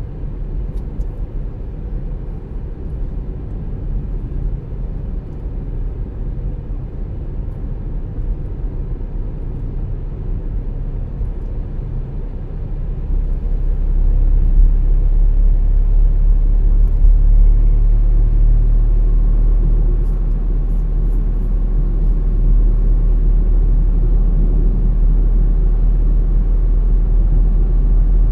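A car driving on the road: a steady low rumble of engine and tyre noise that grows louder about halfway through.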